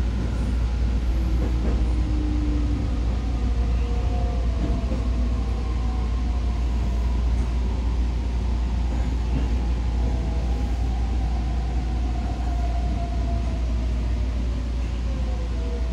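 JR Kyushu 819 series DENCHA electric train running: a steady rumble of wheels on rail, with a faint whine from the electric traction motors that falls slowly in pitch over the second half as the train slows.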